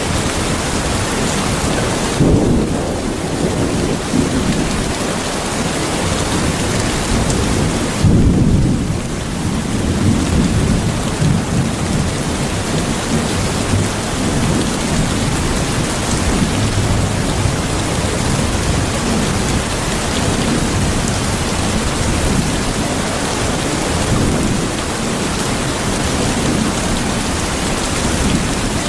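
Steady heavy rain with low rolling thunder underneath; the rumble swells about two seconds in and again about eight seconds in.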